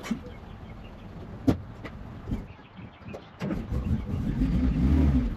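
A few sharp clicks or knocks, then about three and a half seconds in a vehicle engine comes up to a steady low running sound.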